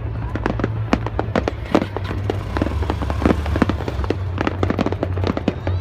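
Fireworks display: a dense, continuous crackle of many rapid pops and bangs, over a steady low hum.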